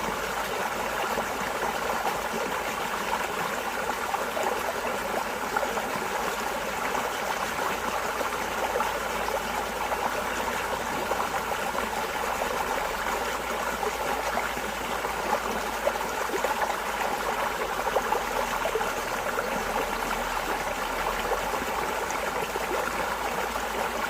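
Water flowing and splashing steadily, as in a small stream, with a constant bubbling trickle.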